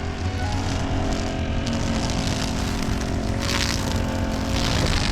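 An engine running steadily, with a couple of rushing bursts of noise in the second half.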